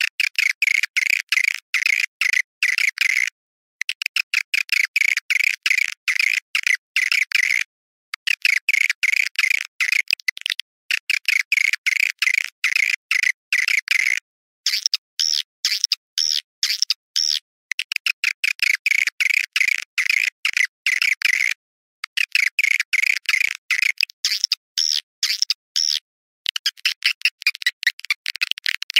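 Recorded swiftlet calls of the kind played to lure swiftlets into swiftlet houses: rapid chirping trills in bursts of a few seconds broken by short gaps, thin and high with no low end.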